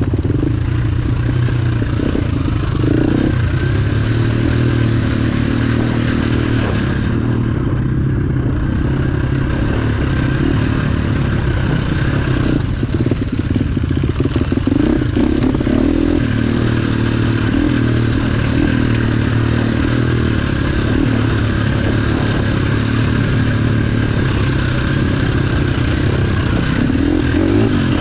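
Enduro dirt bike engine running at fairly steady speed on a trail ride, with clattering and rattling from the bike over rough ground, busiest around the middle.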